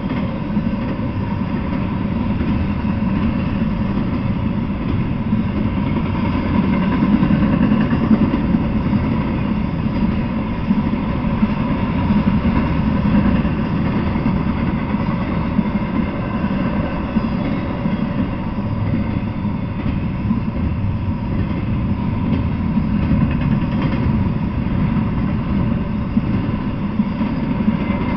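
Intermodal freight train cars loaded with truck trailers rolling past on the rails: a steady, loud low noise of steel wheels on track.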